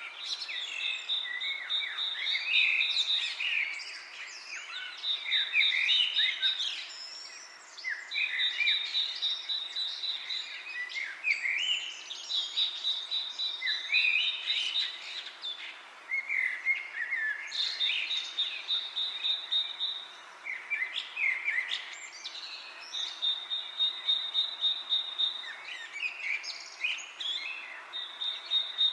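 Several birds chirping, with a high, rapid trill about two seconds long that comes back every few seconds, over a steady hiss of wind in the leaves.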